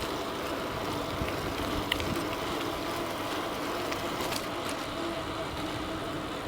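Steady riding noise of an e-bike rolling along a street, with a faint even hum and a few light ticks.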